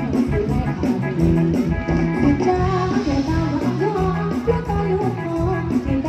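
Live band music with a steady beat and moving bass and melody lines.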